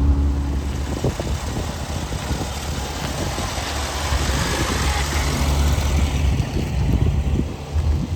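Car engines running at low revs, with a broader rushing sound swelling in the middle as a car moves past.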